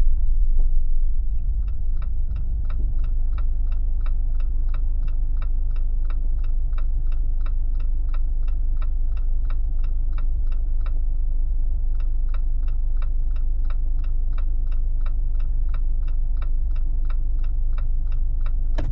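Jeep's turn-signal indicator clicking, about three clicks a second, breaking off for about a second near the middle and then starting again, over the low rumble of the engine and tyres on the road.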